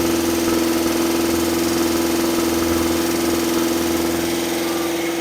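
Freshly rebuilt engine running steadily at a fast idle with a strong even hum, on its first start-up to break in a new camshaft.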